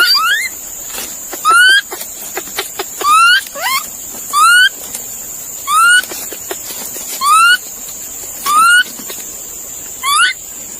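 An animal giving short, squeaky calls that rise in pitch, repeated evenly about every second and a half, eight times.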